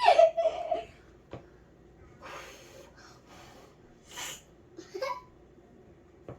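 A person laughs briefly, then gives a few breathy, hissing exhalations of silent laughter. Two light clicks come about a second in and near the end.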